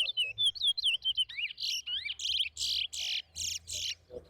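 Towa towa (chestnut-bellied seed finch) singing, one of the songs counted in a singing race. It is a rapid string of short whistled notes, then a few louder, harsher notes, and it stops just before four seconds in.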